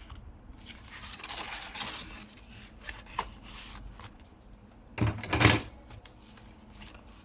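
Paper and craft pieces being handled on a desk, rustling softly, with two sharp knocks or clatters close together about five seconds in.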